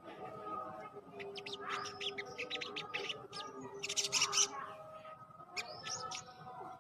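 Sogon bird calling: a string of short, sharp chirps with a dense rattling run about four seconds in and a few looping notes near the end. The husky, hoarse voice is what the keeper credits to sugar water.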